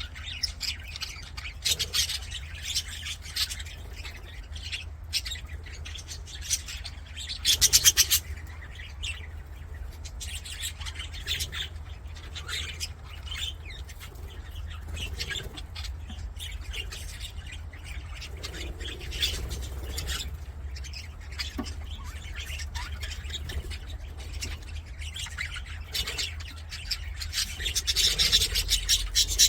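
Budgerigars chattering and warbling with many short, sharp chirps. There is a louder burst of rapid calls about eight seconds in, and the chatter grows denser and louder near the end. A steady low hum runs underneath.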